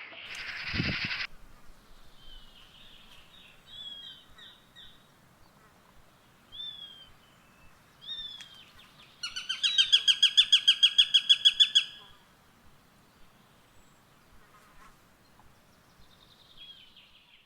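Eurasian sparrowhawk calling: a harsh, noisy sound in the first second, then scattered single down-slurred notes. Midway comes a loud rapid-fire run of about five sharp notes a second, lasting close to three seconds, and a few faint notes follow near the end.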